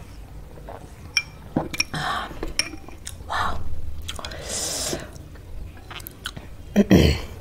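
Mouth sounds of chewing chow mein noodles: wet clicks and smacks, with a louder knock near the end.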